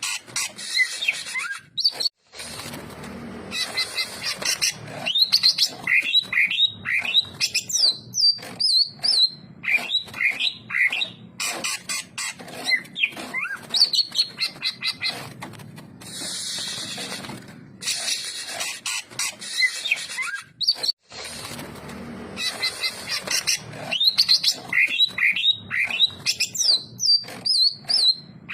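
Cucak ijo (green leafbird) singing a fast, varied song of sharp chirps and sliding whistles. The phrases come in quick runs with short pauses between them.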